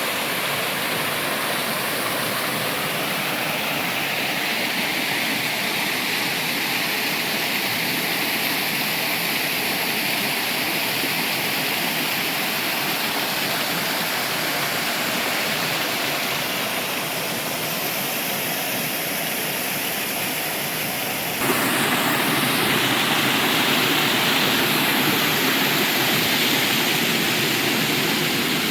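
Waterfall rushing, a steady wash of falling water that abruptly gets louder about three-quarters of the way through.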